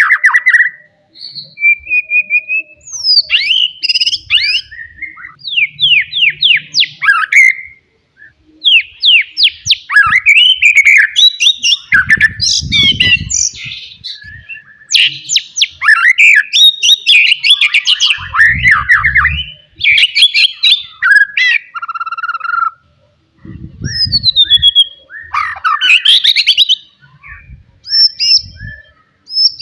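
Wild white-rumped shama singing loudly: a fast, ever-changing run of clear whistles, rapid sweeping trills and harsher chattering notes in short bursts with brief pauses. Three short low rumbles sound under the song partway through.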